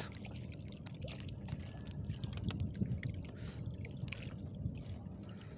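Water lapping and trickling around a small wooden fishing boat, with scattered light taps and clicks.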